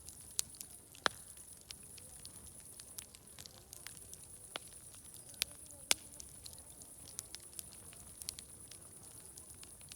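Wood fire crackling, with irregular sharp pops; the loudest come about a second in and just before six seconds. A steady high-pitched hiss and a faint murmur of distant voices run underneath.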